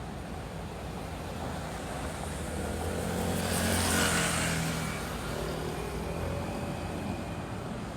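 A car driving past, its engine and tyre noise rising to a peak about halfway through and then fading away.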